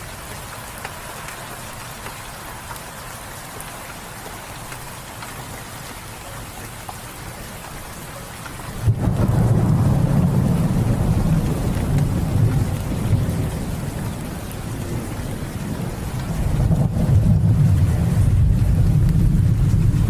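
Steady rain falling, then about nine seconds in a loud, deep rumble of thunder breaks in suddenly and rolls on over the rain, easing a little and swelling again near the end.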